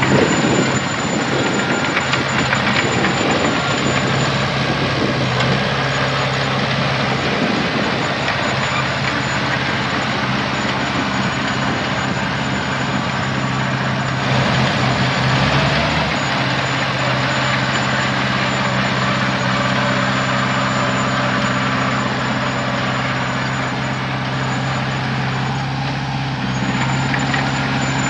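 Heavy diesel engine running steadily, its note shifting briefly around the middle, with a thin high whine over it.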